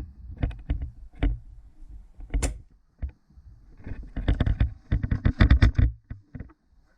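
Close crunching and rustling of footsteps and gear as a person moves through brush and leaf litter. It comes in irregular bursts, thickest in the second half, with a short lull around the middle.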